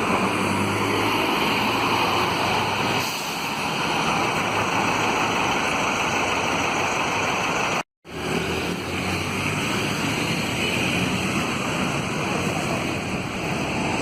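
Steady road-traffic noise, with a bus and other vehicles running past. About eight seconds in it cuts out for a split second, as at an edit.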